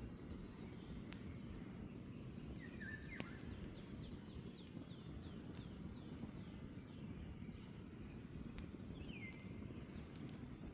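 Campfire burning with a steady low rumble and a few sharp crackling pops. A songbird sings a fast trill of downward-sliding whistled notes from about two to seven seconds in, with a single call near the end.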